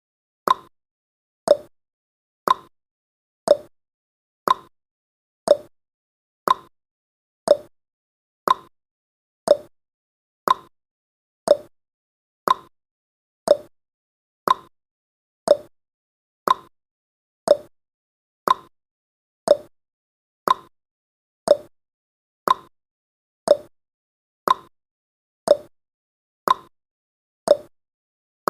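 Countdown timer's clock-tick sound effect: one short, sharp tick about every second, keeping a steady beat.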